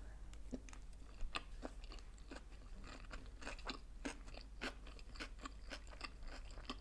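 Close-miked chewing of sushi rolls: soft, irregular wet clicks and light crunches of the mouth working the food.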